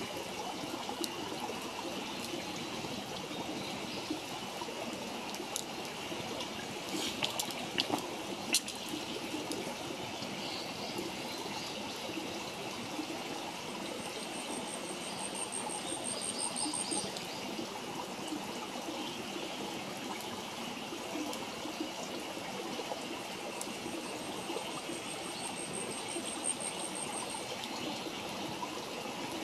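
Campfire burning, with a few sharp crackles a quarter of the way in, over a steady rushing sound like running water. A high, rising trill sounds twice, about halfway through and near the end.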